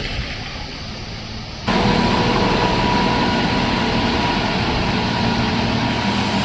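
Heavy vehicle engine running steadily. The level steps up suddenly about a second and a half in, and the engine carries on louder with a few steady tones in its note.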